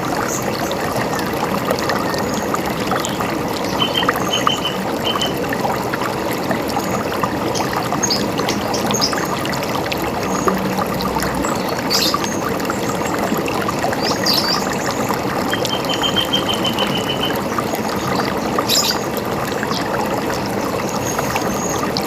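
River water running with a steady rush, with small birds calling over it: scattered short high chirps and two quick trills of repeated notes, one about four seconds in and a longer one past the middle.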